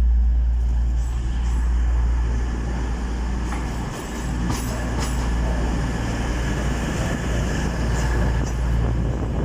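Class 222 Meridian diesel multiple unit running slowly into the platform: a steady low diesel engine drone with a few clicks from the wheels.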